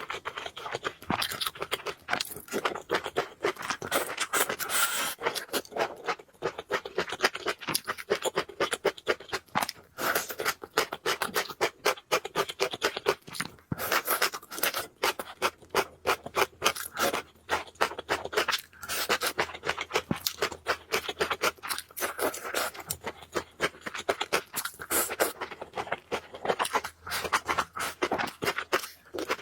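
Close-miked eating sounds: a person chewing noodles and food, a continuous run of small wet clicks and smacks.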